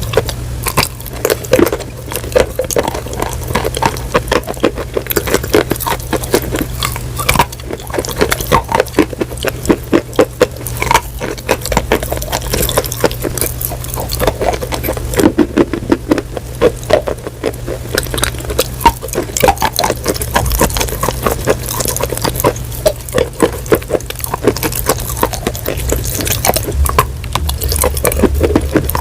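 Close-miked chewing and crunching: a dense, unbroken run of quick, irregular crackling crunches.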